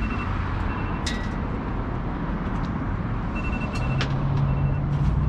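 Motor vehicle running with steady engine and road noise. A low engine drone comes up about four seconds in.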